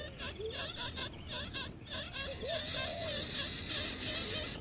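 Nestling birds calling: many short calls that slide up and down in pitch, several a second, over a hiss that pulses and then turns steady about three seconds in.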